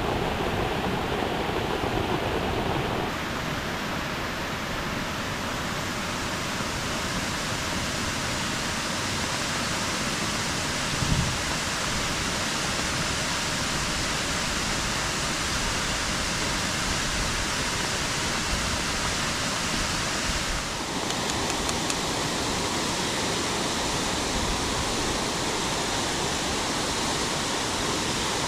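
Steady rush of water from a waterfall. A brief low thump sounds about eleven seconds in.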